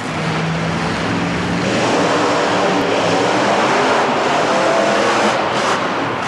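Monster truck engine running and revving hard, loud, swelling louder about two seconds in.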